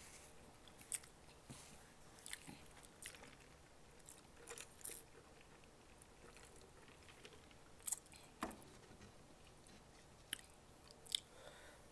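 Faint chewing of food with scattered mouth clicks and smacks, a few sharper ones near the end.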